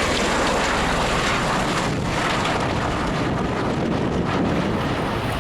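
Bell Boeing V-22 Osprey tiltrotor in flight, its engines and rotors making a steady roar, with wind noise on the microphone.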